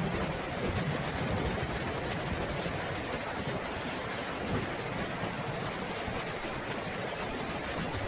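Steady rain, an even hiss, with a low rumble underneath that rises and falls.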